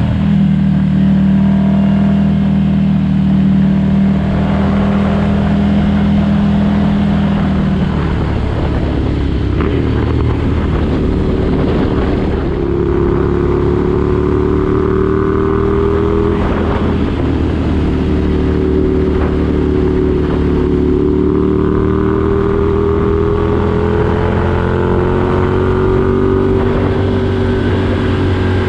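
2019 Ducati Desert Sled's air-cooled L-twin running through a Competition Werkes aftermarket exhaust. The engine note holds steady for about eight seconds, then shifts and climbs slowly twice as engine speed changes.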